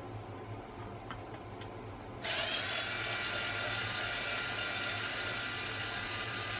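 Electric screwdriver motor starting about two seconds in and running steadily, a whir with a high hiss.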